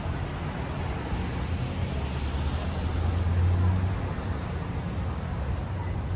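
City street traffic: a steady low rumble of vehicle engines and tyres, swelling for a second or so about three seconds in as a vehicle passes close.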